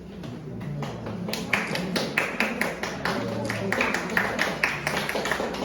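A small group clapping their hands in a steady, even rhythm of about three claps a second, starting about a second in: applause as an award plaque is presented.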